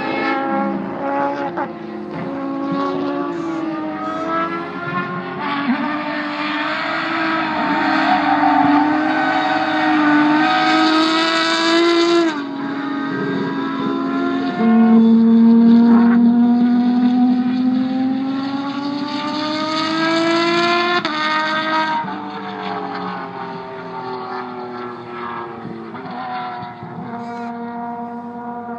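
Peugeot rally car's engine revving hard as it drifts through a corner, its note climbing and then dropping sharply with gear changes several times, loudest about halfway through.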